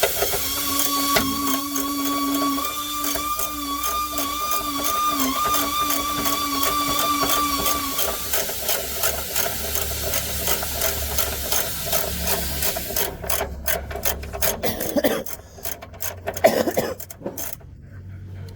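Rapid mechanical clicking of tool work on metal, with a steady whine that wavers slightly through the first half. The clicking thins out to scattered clicks over the last few seconds.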